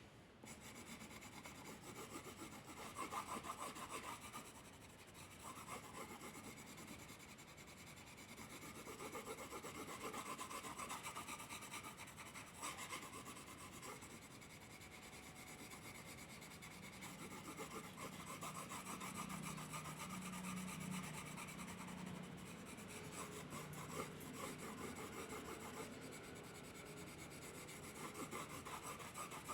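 A drawing tool rubbing and scratching on paper in repeated stretches of strokes, with short pauses between them, as colour is laid down.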